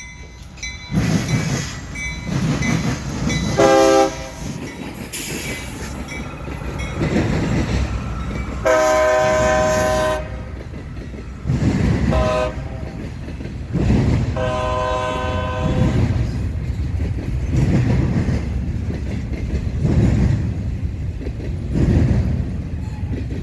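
CSX intermodal freight train's diesel locomotives approaching and running past with a loud, continuous rumble. The locomotive air horn sounds four chords, two short and two long. In the second half the rumble swells and fades in a regular beat about every two seconds as the cars roll by.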